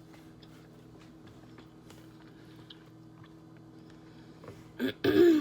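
Quiet chewing, small soft clicks and mouth noises, over a steady low hum. Near the end a brief, loud vocal sound from the person eating.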